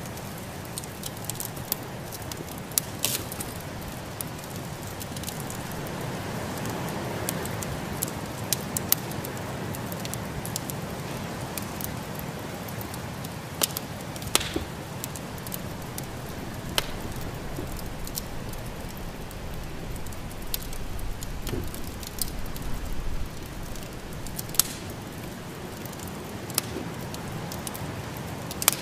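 Wood fire in a fireplace crackling, with sharp pops scattered irregularly over a steady low rushing noise.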